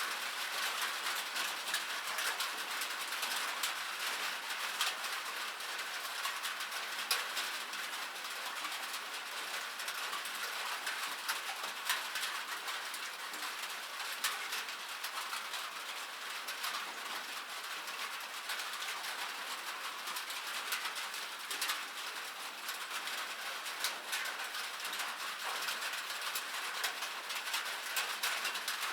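Rain falling on a metal surface: a dense, steady patter of many small ticks, with a few louder drops standing out.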